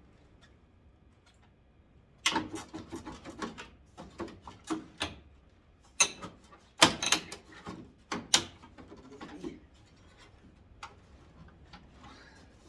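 A 1991 Ford Ranger's headlight trim being pried and tugged at against clips that are still holding: a run of scrapes, clicks and knocks starting about two seconds in, loudest a little past the middle, then quiet.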